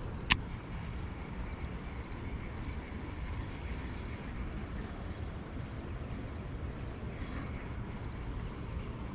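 Steady low outdoor rumble, with one sharp click about a third of a second in and a faint high thin tone from about five to seven and a half seconds in.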